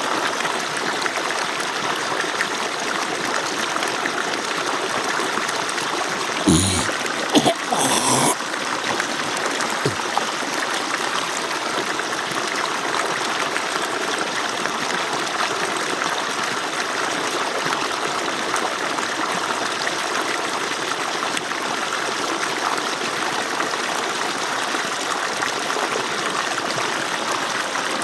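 Steady rush of water pouring from an agricultural pump's outlet pipe, with a short cluster of louder sharp noises about six to eight seconds in.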